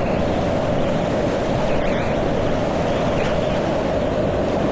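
Steady rush of whitewater river current.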